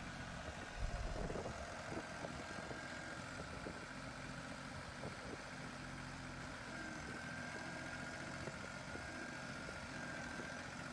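Six-wheeled tractor's engine running steadily as the machine works its way out of a ditch, with a faint steady whine over it and a few knocks about a second in.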